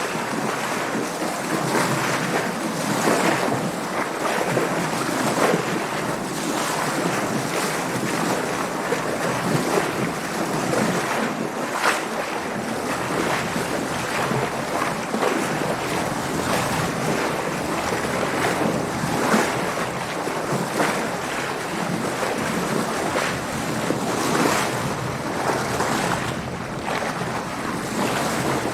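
Water splashing and sloshing steadily against a sailing boat's hull, with frequent short surges of spray, and wind noise.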